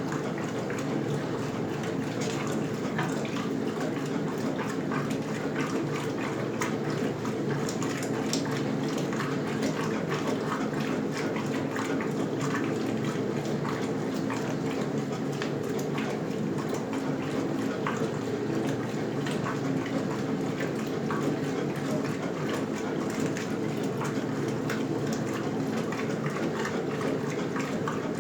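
Westinghouse Lavínia washing machine (model LWAAP6KX, built 1977) running mid-cycle: a steady motor hum under continuous water noise with many small splashes.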